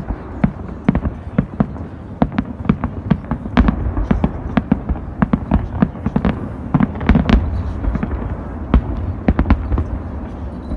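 Fireworks display: a rapid, irregular string of sharp bangs, several a second, over a continuous low rumble, busiest and loudest in the middle.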